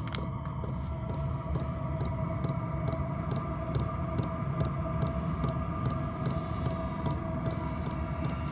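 Chinese diesel air heater running with a steady hum, its fuel pump ticking about two to three times a second. The heat setting has just been turned up, so the pump is pulsing faster to feed more fuel.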